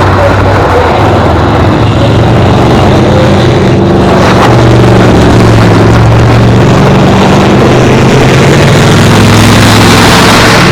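Racing car engines running loud and steady on the track, several engine tones overlapping.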